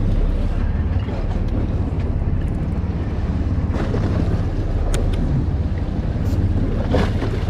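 Steady low rumble of the sportfishing boat's engine, with wind buffeting the microphone. A couple of brief knocks sound over it, about five and seven seconds in.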